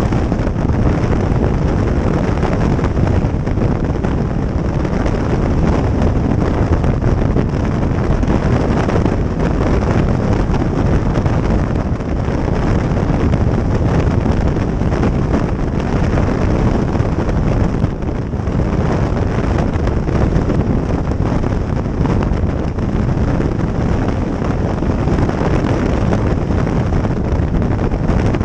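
Wind rushing over the microphone on a moving motorcycle, with the bike's engine and road noise underneath. The noise is loud and steady, with a brief dip about two-thirds of the way through.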